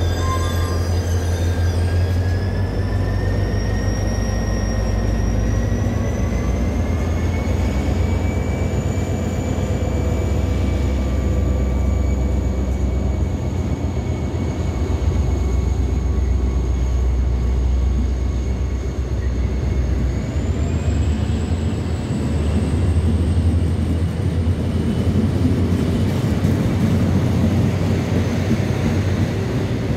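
Passenger coaches of a locomotive-hauled train rolling past as it pulls out of the station, a steady heavy low rumble of wheels on rail with a faint whine that slowly rises in pitch as the train picks up speed. The last car goes by near the end.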